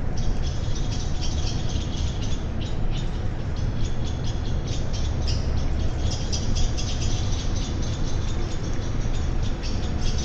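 Many small birds chirping and chattering in quick, overlapping calls, over a steady low rumble.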